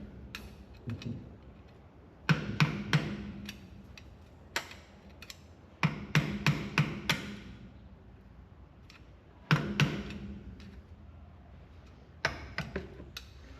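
Hammer driving a screwdriver against the tabs of the truck's axle-nut lock washer, knocking them out of the way: four quick bursts of several sharp metal blows, each with a short ring.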